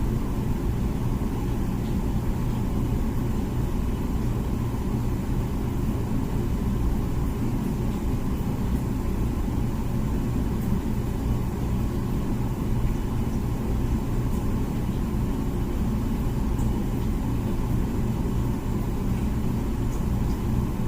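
Comfee dishwasher running mid-cycle: a steady low rumble and hum from its wash pump and circulating water.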